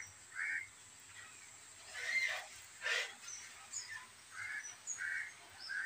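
Faint bird calls: short calls repeated every second or so, with a few small high chirps, and a brief click or rustle about three seconds in.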